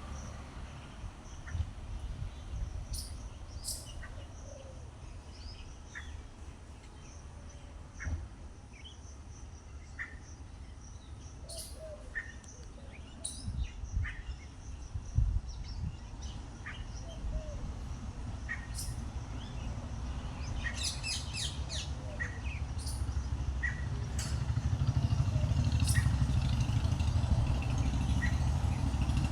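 Birds chirping outdoors, with short scattered calls and a quick run of high chirps about two-thirds of the way in. Under them is a low rumble that builds and grows louder toward the end.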